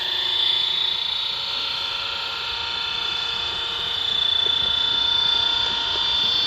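Scale RC helicopter hovering on its heavier main rotor blades, its motor and rotors giving a steady, even high-pitched whine.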